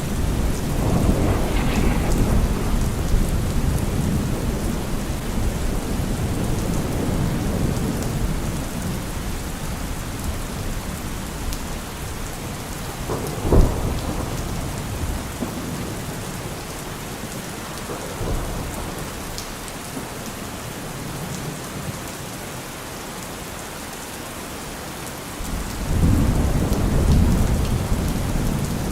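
Heavy rain falling steadily, with thunder. A low rolling rumble fades over the first dozen seconds. A sharp thunderclap comes about halfway through, and another rumble builds near the end.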